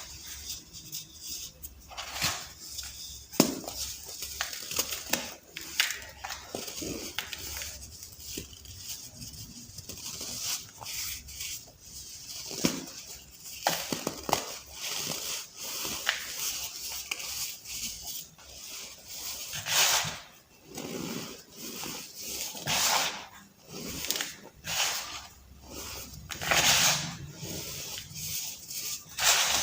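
Soft baked baking soda balls being crushed and crumbled: a continuous run of irregular, gritty crunches and crackles, with several louder crunches in the second half.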